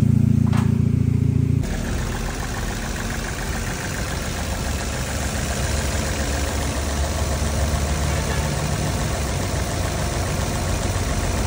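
Freshly rebuilt 2012 Chevrolet Cruze LTZ petrol engine idling evenly, smooth and without knocking or shaking. In the first couple of seconds a louder steady low hum is heard; it cuts off abruptly, leaving the engine running on its own.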